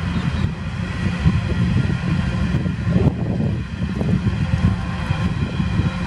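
Coal train hopper wagons rolling past, a continuous heavy rumble of wheels on rail, mixed with wind buffeting the microphone.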